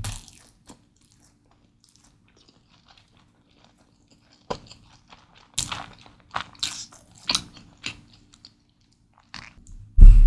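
Close-miked eating sounds: after a few quiet seconds, crisp bites and chewing crunches come in a cluster, then a heavy low thump near the end.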